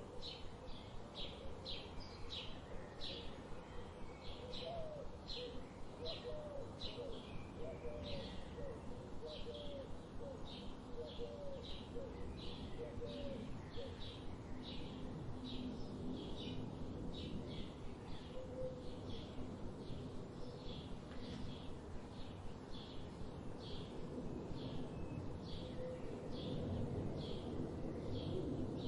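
Wild birds calling: a high short chirp repeated about twice a second throughout, with a lower cooing call repeating between about 4 and 14 seconds in, over a steady low background noise.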